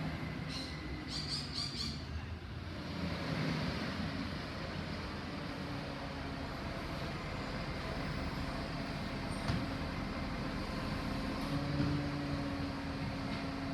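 Garbage truck engine running steadily with a low hum, which swells briefly near the end. Just after the start comes a quick run of four or five high chirps.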